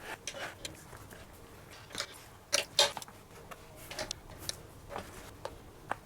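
Irregular clicks, taps and rustles of hands working on a leather baseball glove during relacing, with two louder sharp snaps about two and a half seconds in.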